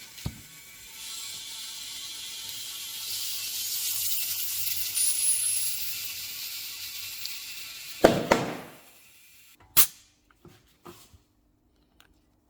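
Compressed air hissing into a freshly fitted motorcycle tyre, then a loud bang about eight seconds in as the bead snaps onto the rim, followed by a sharp click and a few small ticks.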